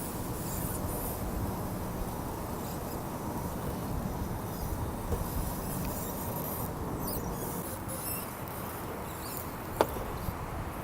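Radio-controlled scale crawler driving: a steady low drive noise with a faint whine, crackling here and there, and one sharp click near the end.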